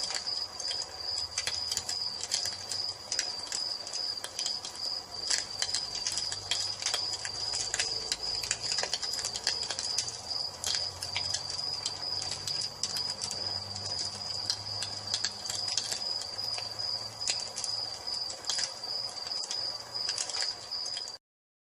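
Wood fire crackling and popping with a low rumble, over crickets trilling in a steady high chirr. The sound cuts out abruptly just before the end.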